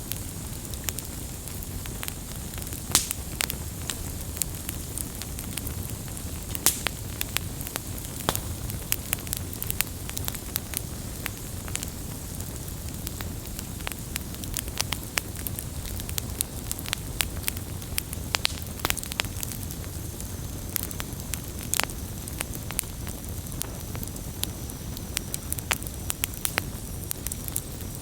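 Campfire burning, with frequent irregular sharp crackles and pops over a steady low rumble and hiss.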